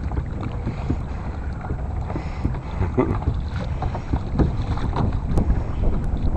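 Wind buffeting the microphone over water lapping against a kayak's hull, with short splashes now and then through the middle.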